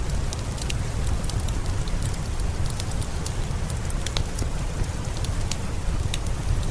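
Steady rain with a strong low rumble, mixed with a crackling wood fire: scattered sharp pops and ticks over the even hiss.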